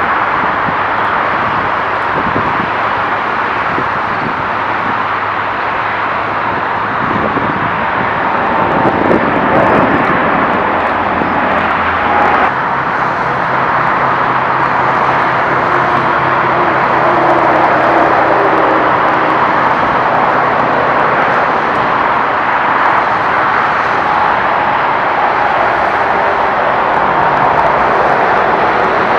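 Boeing 747-8's four GEnx turbofan engines at takeoff thrust: a loud, steady jet noise with a few shifting tones.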